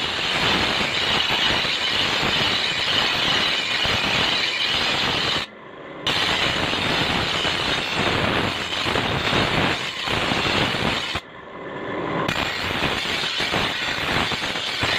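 Steel toka-machine blade being ground, a continuous harsh grinding noise that breaks off abruptly twice, about five and a half and about eleven seconds in.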